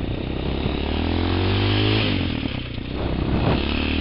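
TaoTao TBR7 dirt bike's 229cc single-cylinder four-stroke engine under throttle while riding. Its pitch rises, drops suddenly about two seconds in as if shifting up or rolling off, then climbs again near the end.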